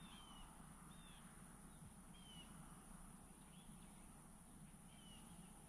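Near silence with faint, short bird chirps, about five of them, one every second or so.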